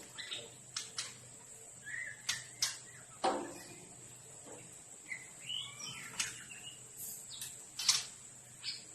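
Captive birds in an aviary calling with scattered short chirps and gliding whistles, mixed with several sharp clicks.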